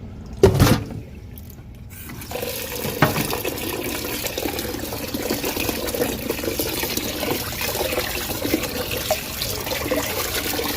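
A single knock, then a tap running water into a bowl of rice being rinsed, starting about two seconds in and running steadily.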